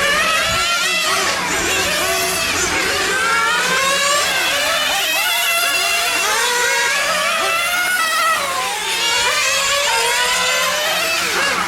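Several nitro-engined radio-controlled cars running on a track together, their small glow engines revving up and down in overlapping high-pitched whines that rise and fall as the cars accelerate and brake.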